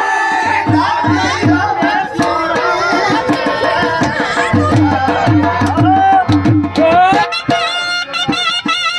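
Gujarati folk music: a dhol drum beats a steady rhythm under a sarnai (double-reed pipe) melody. From about three-quarters of the way in, the sarnai plays a wavering, ornamented line.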